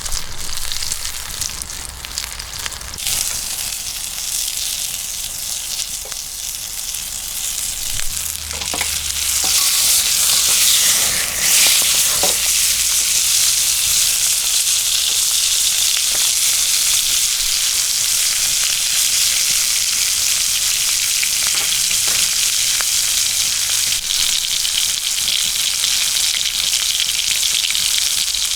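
Food frying in a hot pan, a steady sizzle that grows louder about ten seconds in and then holds.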